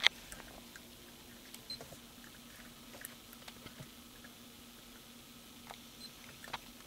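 Quiet car cabin: a faint steady low hum with a few scattered light clicks.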